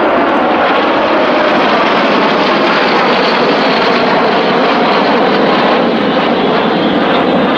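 Formation of Aero L-39 Albatros jets flying past, their turbofan engines making a loud, steady rushing noise with a faint whine.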